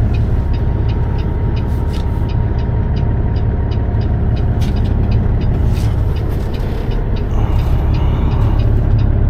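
Peterbilt 389's diesel engine running steadily, heard from the cab, with a fast regular ticking over the low rumble. A short hiss of air comes about seven seconds in.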